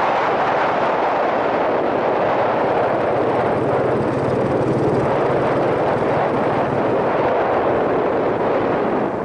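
Wind rushing over a helmet-mounted microphone while riding a Yamaha SRX400 motorcycle, its single-cylinder engine running steadily beneath the wind noise.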